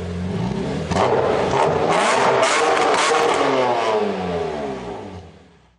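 Car engine revving hard, its pitch sweeping up and down. It grows suddenly louder about a second in and fades away near the end.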